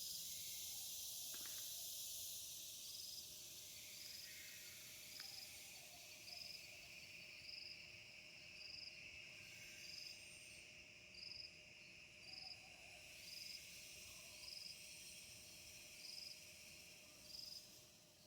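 Insects chirping faintly: a steady high chorus with one short, high chirp repeating evenly about every half second.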